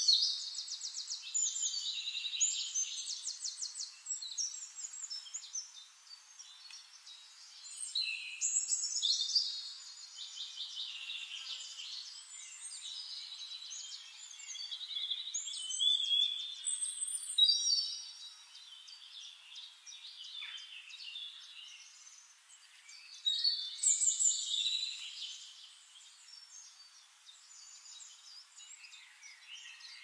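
Birds singing: bursts of varied high song with quick trills and sliding notes every few seconds, with softer chirping in between.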